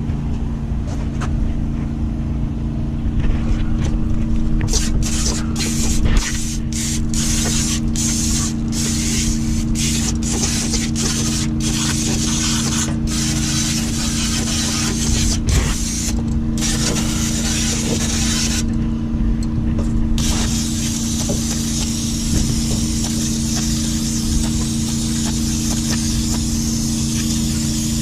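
Aerosol brake cleaner spraying in short hissing bursts with brief breaks between them, then as one long continuous spray in the second half, over a steady low hum.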